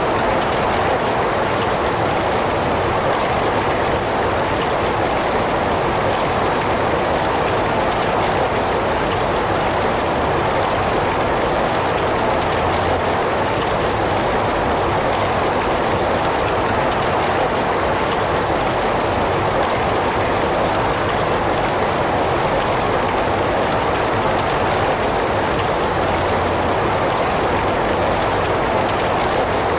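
Steady heavy rain falling, an even unbroken hiss with no distinct drops or thunder.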